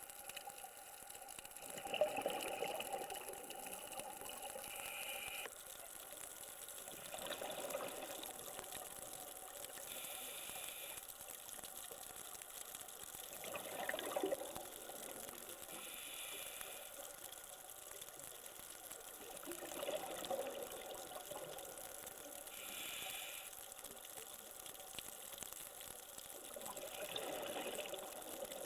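Scuba diver breathing through a regulator underwater in a slow, even cycle. A rush of exhaled bubbles comes about every six seconds (five times), with the fainter hiss of inhalation between them.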